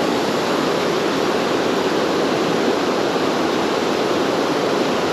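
River water rushing steadily over rocks, an even loud rush with no break.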